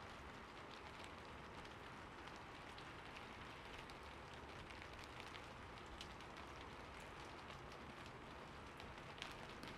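Faint rain: a steady hiss with many light, scattered ticks of drops on a surface.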